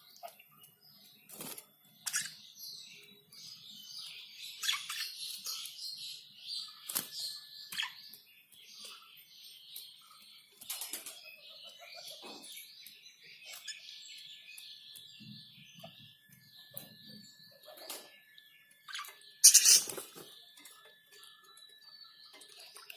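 Pet budgerigars chattering and chirping in a run of quick, warbling calls, with scattered clicks and one sudden loud burst about twenty seconds in.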